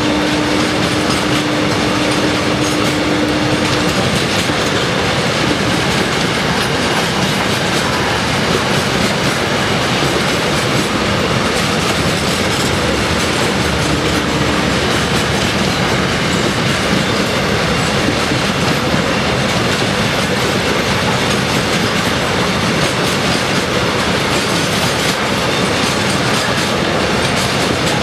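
A train passing on the line, its wheels clattering steadily over the rail joints. A single steady tone sounds over the clatter for the first few seconds and briefly again about halfway through.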